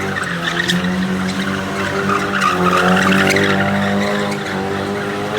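Drift car's engine held at high revs at a near-steady pitch while its tyres skid and squeal on the tarmac.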